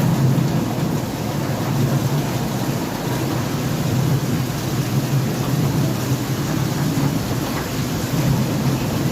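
Heavy rain pouring in a windstorm: a steady, dense hiss with a low rumble underneath.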